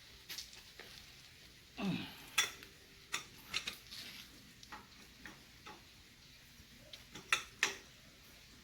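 Steel hand tools clinking and knocking as a socket, extension, breaker bar and leverage pipe are handled and fitted together: scattered sharp metallic clicks, the loudest about two and a half seconds in and another pair near the end.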